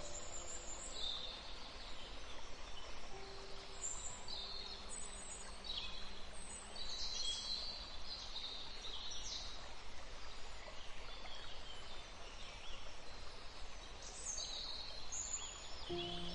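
Nature ambience: birds chirping on and off in short, high, scattered calls over a steady hiss, with a few faint low held tones.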